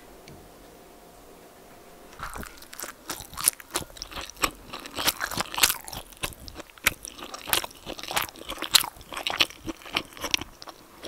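Close-up chewing of egg inari sushi (seasoned fried tofu pockets filled with rice and scrambled egg): a quick, irregular run of moist bites and chews starting about two seconds in.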